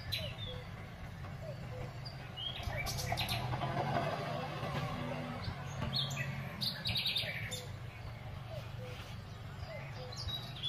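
Small birds chirping on and off over the steady low drone of a tractor engine at work.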